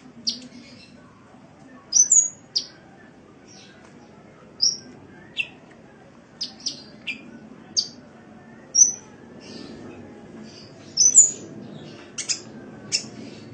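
Sunbird calling: a string of short, sharp, high-pitched chirps at irregular intervals, some sliding down in pitch, over a faint low background hum.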